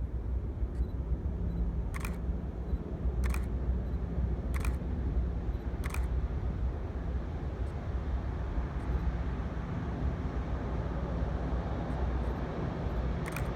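Camera shutter firing five times: four shots about a second and a quarter apart, then one more near the end. Under it runs a steady low rumble.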